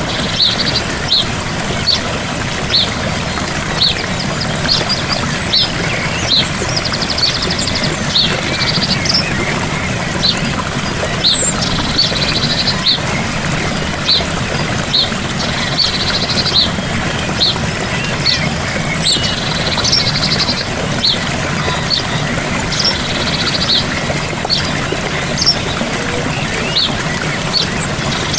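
Gentle waterfall rushing steadily, with birds chirping over it: short high chirps about once a second and a few brief trills.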